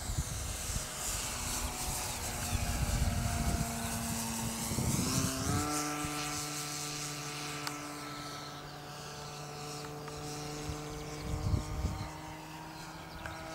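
Electric motor and propeller of a radio-controlled Cessna 182 model in flight: a steady whine that steps up in pitch about five seconds in, holds, then dips slightly near the end.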